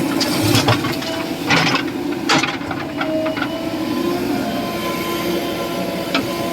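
Diesel engine of a JCB 3DX backhoe loader running steadily under work, with several short sharp knocks and clanks in the first couple of seconds and another near the end as it handles soil.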